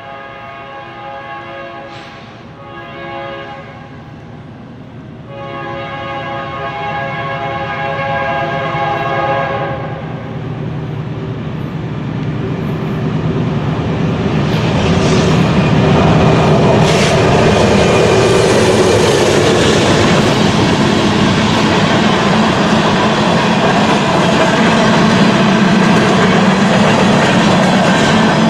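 BNSF locomotive air horn sounding several blasts, the last one long and ending about ten seconds in, then the train coming up and passing close by, loud, with wheels clattering over the rail joints.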